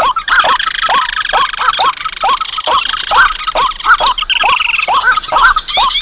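Bird-lure recording of layered rice-field and marsh bird calls: short calls repeated fast, about four a second, over a long dry rattling trill that stops about five seconds in.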